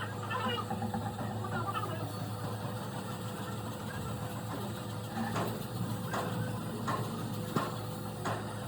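A machine runs with a steady low hum. Faint voices are heard in the first second or so. From about five seconds in there are five short sharp knocks, roughly one every 0.7 seconds.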